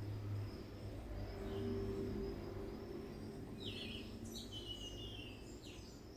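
Midea Wave-Agitator top-load washing machine running with a steady low hum. Birds chirp several times in the second half.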